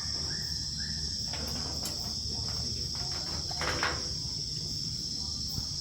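Night chorus of rainforest insects: a steady, high-pitched trilling buzz that keeps going without a break.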